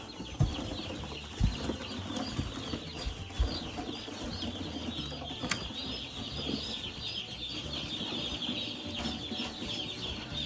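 A crowd of day-old Cornish Cross broiler chicks peeping continuously, many short high cheeps overlapping, from inside their shipping boxes. A few low thumps come from the boxes being handled and set down.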